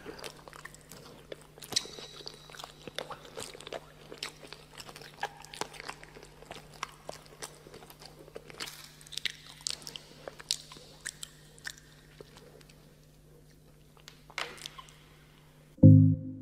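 Crunchy biting and chewing of roasted dog meat: many sharp crackles and smacks over a faint steady hum. A loud burst of music starts just before the end.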